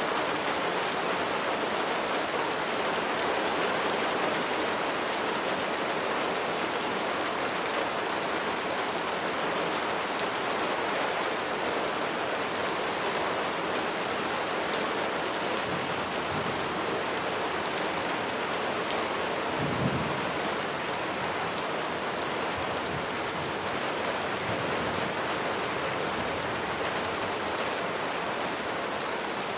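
Steady heavy rain falling, with the fine ticks of individual drops. A brief low rumble of thunder comes about two-thirds of the way through.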